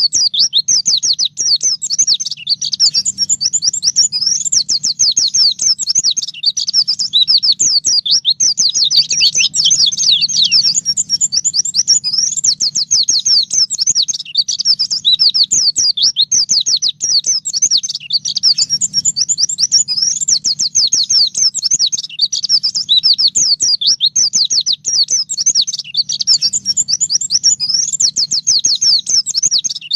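White-eye (pleci) singing a long, unbroken song of rapid high chirps and trills.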